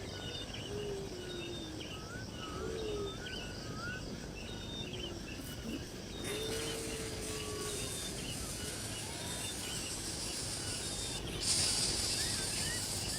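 Birds chirping and calling, with short sliding whistles, over a steady outdoor background noise. A brief burst of hiss comes near the end.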